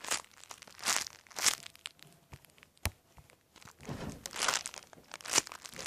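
Crinkling and rustling from a squishy toy being handled, in several irregular bursts with a sharp click about three seconds in.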